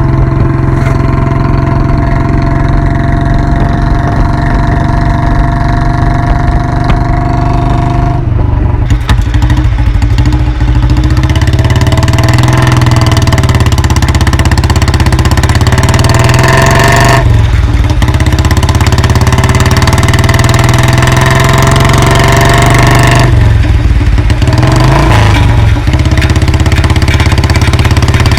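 1990 Royal Enfield Bullet 350's single-cylinder four-stroke engine running loud. Its note changes abruptly a few times, about 8, 17 and 24 seconds in.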